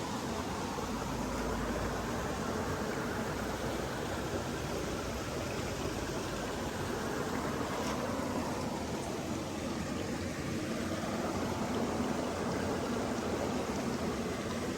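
Steady rush of flowing water, an even noise that swells slightly about twelve seconds in.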